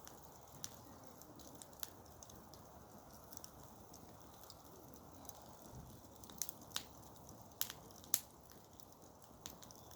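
Wood campfire crackling: irregular sharp pops and snaps over a faint steady hiss, with a cluster of louder pops about six to eight seconds in.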